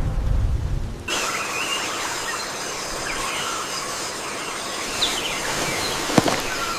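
Rainforest ambience: a low rumble of wind and water cuts off about a second in, giving way to a steady high hiss with scattered short chirping calls and a few sharp clicks.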